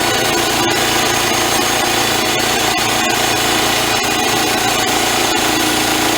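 Band sawmill sawing through a log: the blade and its engine run loud and steady.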